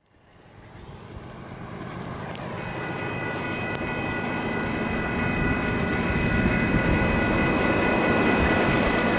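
Diesel freight locomotive approaching, its engine rumble growing louder. About two and a half seconds in, its multi-chime air horn starts sounding as one steady chord and is held.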